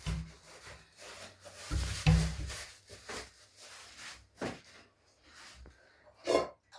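Handling noises: scattered knocks and rubbing of wooden things, with heavier thumps about two seconds in and a sharp knock near the end.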